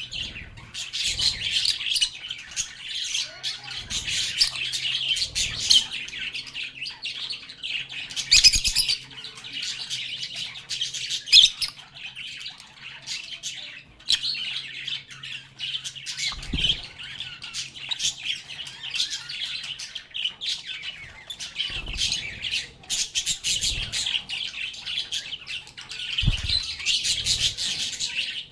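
A flock of lovebirds (Agapornis) chattering nonstop with high chirps and squawks. A few short knocks come through, about 8, 16 and 26 seconds in, and a faint low hum runs under the first two-thirds.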